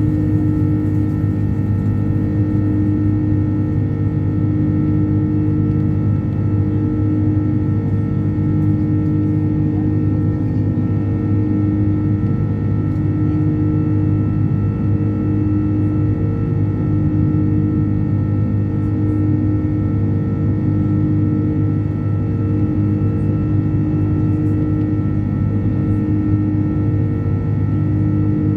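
Rolls-Royce Trent 700 turbofans of an Airbus A330 heard inside the passenger cabin, running steadily: a loud low rumble with several steady whining tones.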